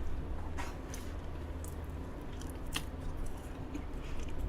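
Close-up chewing of soft, creamy chocolate cake with moist cookie layers, with a few short, sharp wet clicks of the mouth.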